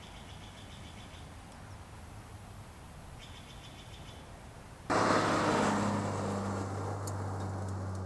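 Quiet outdoor air with a few faint bird chirps. About five seconds in, a car set off with explosives goes off in a sudden loud blast, which fades over a second into a steady low hum.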